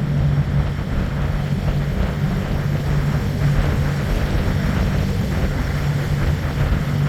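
Small tour boat's engine running steadily under way, a constant low hum with a steady rush of wind and water noise over it.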